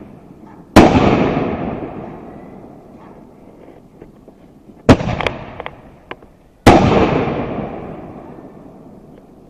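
T-Sky consumer fireworks going off: three loud bangs, each followed by a long fading rumble, with a few small sharp pops after the second bang.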